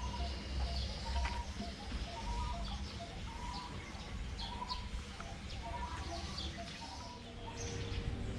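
Birds calling: one repeats a short note a little under twice a second, with scattered higher chirps from others over a low rumble.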